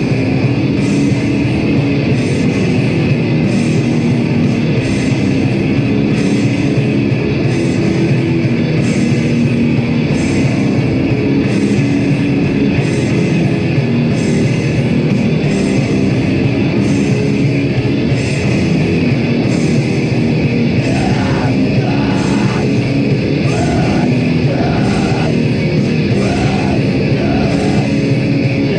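Heavy metal band playing live at full volume: a dense, distorted wall of guitar and drums. Yelled vocals come in about two-thirds of the way through.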